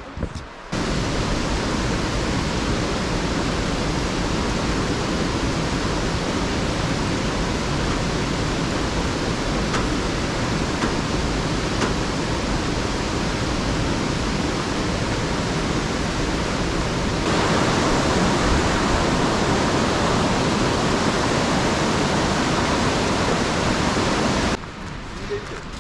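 Waterfall water rushing as a steady, loud, even noise, with no distinct events. It cuts in sharply, steps up a little about 17 seconds in, and cuts out shortly before the end, as if two spliced clips.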